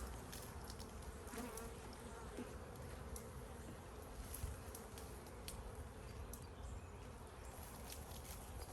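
Honeybees buzzing steadily around an opened hive, a continuous drone with a few faint clicks.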